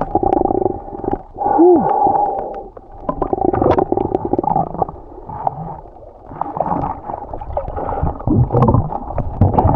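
Muffled gurgling and sloshing of water, dull and heard as if through a waterproof camera housing, with scattered clicks and knocks and a few bubbling glides in pitch.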